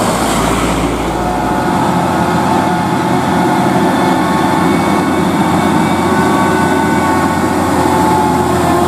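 Diesel engine of a heavily loaded tronton truck running steadily under load: a low rumble with several steady whining tones above it. The deepest part of the rumble fades about a second and a half in.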